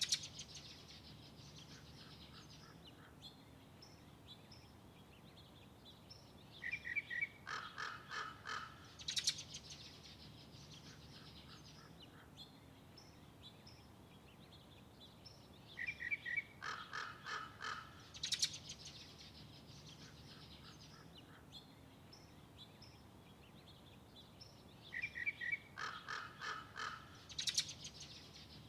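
A songbird singing the same short phrase over and over, about every nine seconds. Each phrase lasts about three seconds: a quick pair of notes, then a run of rapid notes, ending in a high sweep.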